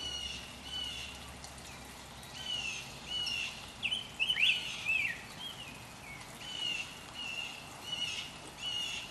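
Birdsong in woodland: short slurred chirping notes repeated about twice a second, with a busier run of rising and falling chirps in the middle.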